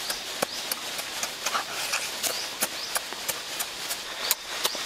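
Close-up mouth sounds of eating roast chicken: chewing and lip-smacking heard as an irregular run of sharp, wet clicks, several a second.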